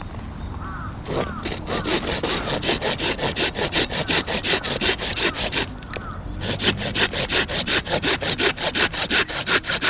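Hand saw cutting through wood in quick, regular back-and-forth strokes, likely firewood for the campfire, with a brief pause about six seconds in.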